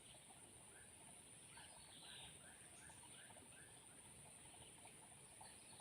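Near silence: faint outdoor ambience with a steady high hiss and a faint run of short, quick chirps, about three a second, in the middle of the stretch.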